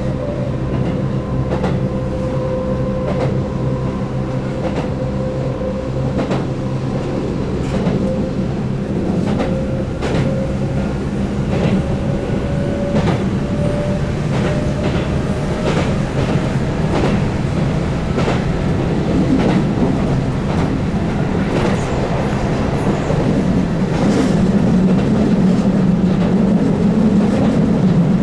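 Keihan 8000 series electric train running at speed, with the whine of its DC traction motors under field-added excitation control slowly rising in pitch over a steady rumble. Wheels click over rail joints about once a second.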